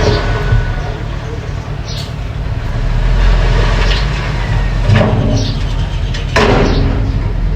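Mini bulldozer engine running steadily under load, with several sharp knocks and clanks, the loudest near the end.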